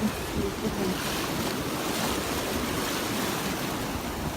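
Ocean surf washing onto the beach, a steady rush with a slight swell about halfway through, mixed with wind on the microphone.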